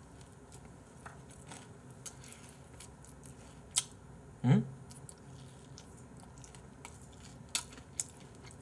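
Close-miked chewing of fried chicken, with a few sharp clicks and a short falling hum from the eater about four and a half seconds in.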